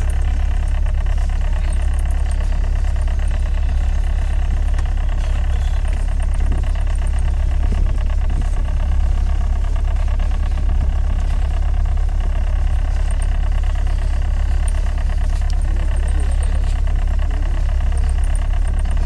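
Tourist boat's engine running steadily under way, a loud, unchanging low drone with a constant hum above it.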